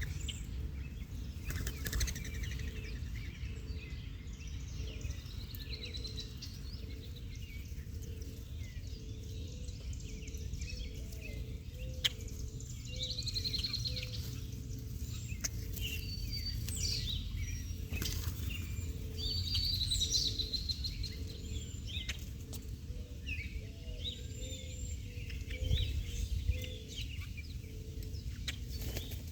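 Small birds chirping and twittering, many short calls throughout, over a steady low rumble, with a few sharp clicks.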